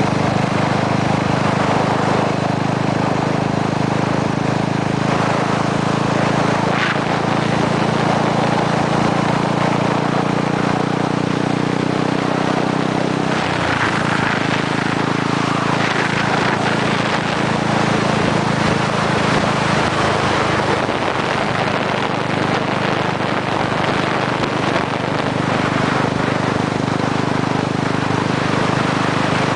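Motorcycle engine running steadily while riding, with wind and road noise over it. About halfway through, the engine note dips and shifts to a new pitch.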